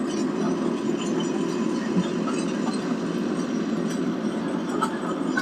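Old tractor engine running steadily, a low, even rumble.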